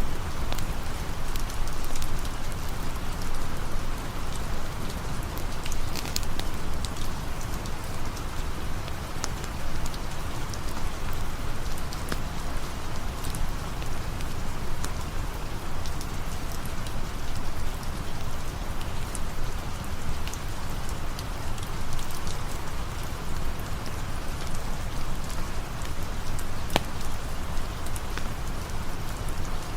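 Steady rain falling, an even wash of noise with a low rumble and scattered sharp ticks throughout.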